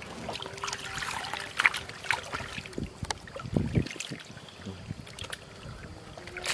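Water splashing and dripping, with irregular knocks and a couple of duller thuds, over a faint steady hum.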